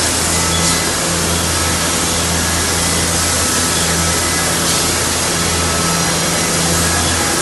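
Digital yarn printing machine running: a steady mechanical hiss over a low hum that swells and drops roughly once a second.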